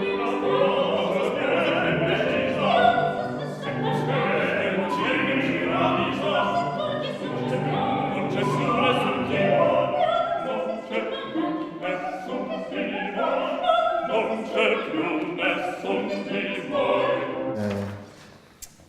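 Operatic singing with accompaniment, breaking off abruptly about a second before the end.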